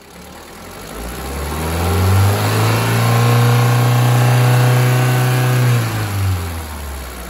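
Skoda Octavia's 1.6-litre CWVA four-cylinder MPI petrol engine revved from idle up to about 4000 rpm. It is held steady there for a few seconds, then let fall back toward idle near the end.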